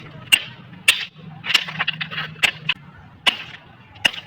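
A bus being smashed with a hammer: about six sharp cracking blows, roughly one a second, with crunching in between.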